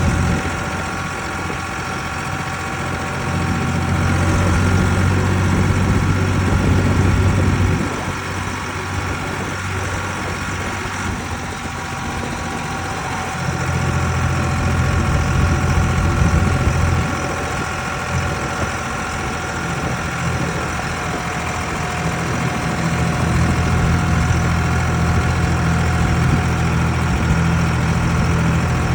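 Ford 3600 tractor engine running steadily, swelling louder for a few seconds three times, about three, thirteen and twenty-three seconds in.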